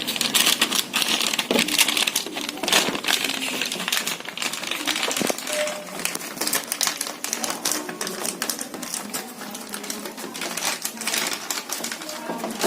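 Hands handling insulation tape and plastic parts of a washing machine's wiring: rapid irregular clicks and crackles.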